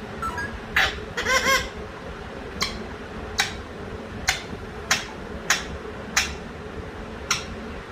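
Alexandrine parakeet vocalising to itself: a short warbling call in the first couple of seconds, then a run of about seven sharp clicks, one every second or so.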